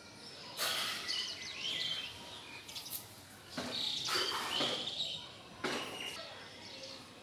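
House sparrows chirping in quick clusters of short, high chirps, with three brief bursts of rustling noise among them.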